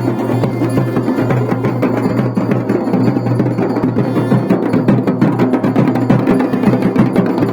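Music led by loud, fast, continuous drumming.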